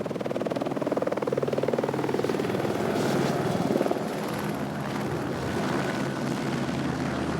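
Helicopter rotor chopping with a rapid, even beat, growing louder over the first four seconds and then holding steady.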